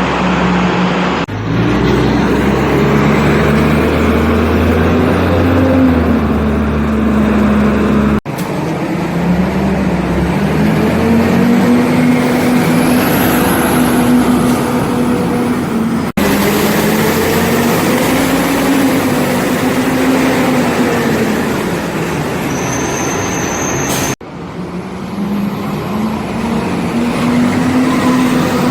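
City transit buses' loud engine cooling fans droning over the running diesel engines, one bus after another; the drone rises and falls in pitch as the fan speed changes. Hard cuts about every eight seconds switch to the next bus.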